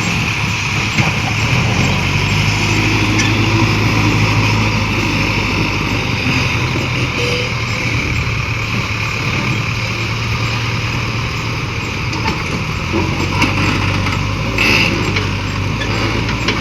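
Tractor diesel engine running steadily with a low, even hum.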